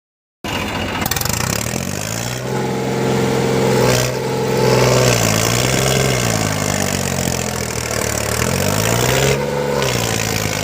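Tractor engine revving up and down under load over a steady hiss as its tyres spin in place to make smoke. The engine sound starts about half a second in, climbs twice and drops back between.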